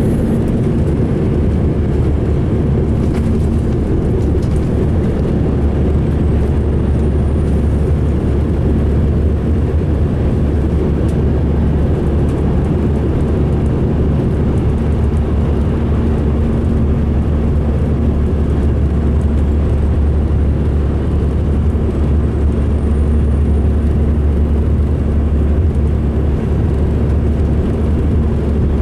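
2005 MCI D4500 coach's diesel engine running, a steady low drone with constant low hum tones and no change in level. The engine sounds rough.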